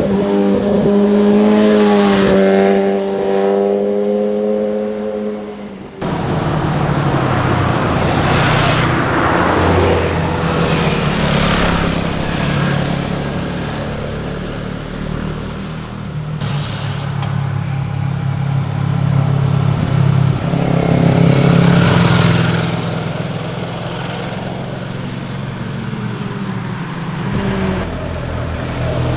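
Motorcycle engines passing on the road: first a steady, held engine note for about six seconds, then after a sudden cut a lower rumbling engine with several louder pass-bys.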